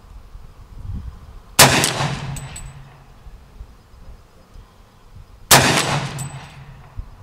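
Two shots from a Hi-Point .40-calibre carbine, about four seconds apart. Each shot rings on briefly, and a short high ring follows it.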